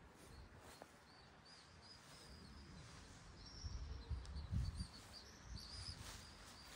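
Small birds chirping: short, repeated high chirps, coming thicker in the second half, over faint outdoor background noise. A few low thuds sound about four seconds in.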